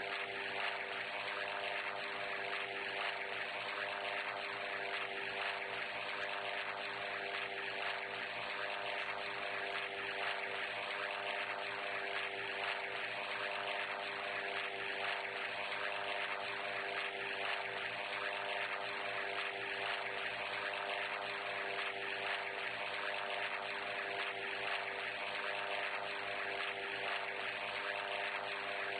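A steady engine drone that holds one pitch throughout, with a hiss over it.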